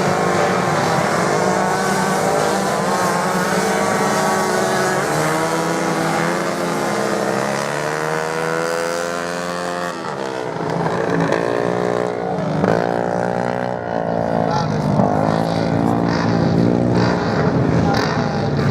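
Several racing motorcycles' engines revving, overlapping and rising and falling in pitch as the bikes accelerate, change gear and pass.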